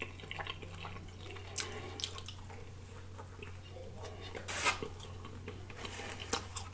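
Close-miked wet chewing and lip smacking as a mouthful of pita bread is eaten, a soft run of small clicks and smacks with one louder wet smack a little past the middle. A steady low hum lies under it.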